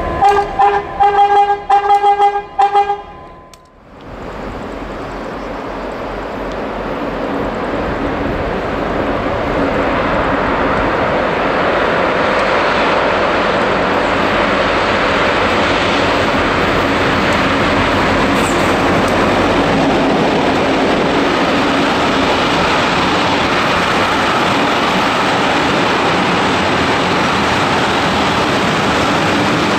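A locomotive horn sounds a quick series of about seven short blasts. After an abrupt break, a freight train led by two Roots-blown EMD G26CW diesel locomotives pulls past. The engine and wheel noise builds over several seconds, then holds steady as the tank wagons roll by.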